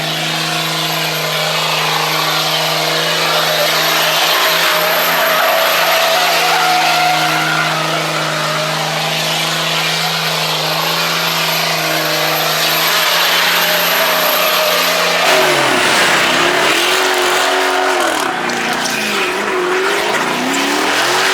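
Car engine held at steady high revs while the tyres spin and squeal in donuts. About fifteen seconds in the revs drop, and the engine is then revved up and down in short blips.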